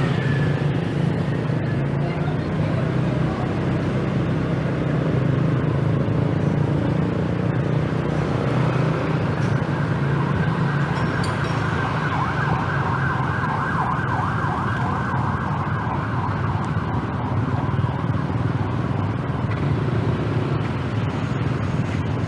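Scooter engine running steadily under way, with road and wind noise. For several seconds midway a higher, wavering sound rises over it.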